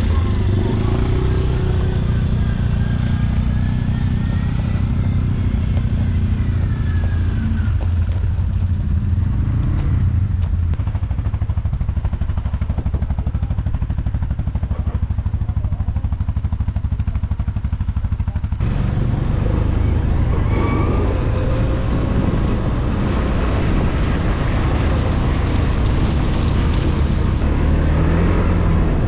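ATV engine running steadily as the quad is ridden. For several seconds in the middle the sound turns duller.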